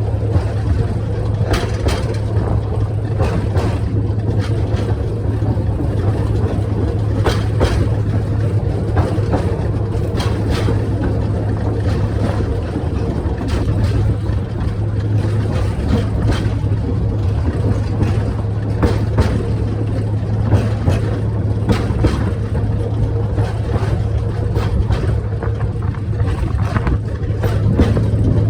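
The little Barril Beach train running steadily, heard from aboard: a constant low engine hum with irregular clacks and rattles from the wheels and carriages.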